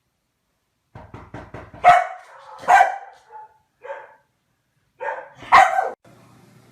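A dog barking: a few quick short sounds, then a series of loud, separate barks over about five seconds.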